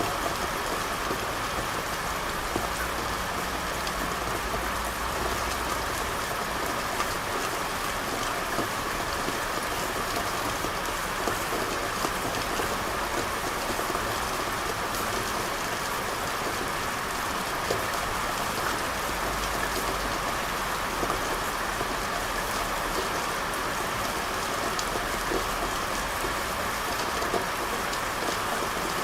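Steady rain falling on a street, an even hiss dotted with many small drop ticks. A low rumble sits underneath near the start and again later on.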